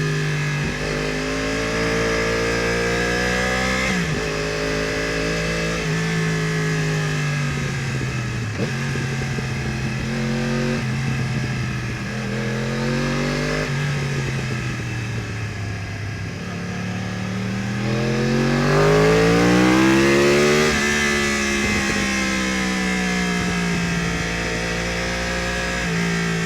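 2015 Yamaha R1's crossplane inline-four with a full Akrapovič exhaust, ridden hard through bends. The engine note climbs and falls again and again with the throttle, with sudden pitch drops at gear changes. The loudest, steepest climb and fall comes about two-thirds of the way through.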